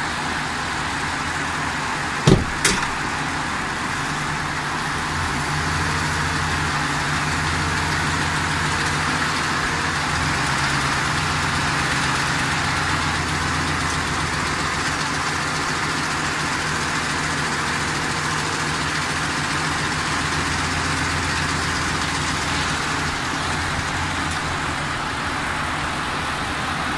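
Ford 5.4 L three-valve V8 running in gear under light load with both VCT solenoids connected, with a slight ticking from the engine that the owner suspects is bad cam phasers. Two sharp clicks come about two seconds in, and the engine note rises a little soon after and settles back near the end.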